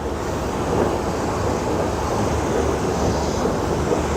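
Wind blowing across the microphone: a steady low noise that flutters unevenly.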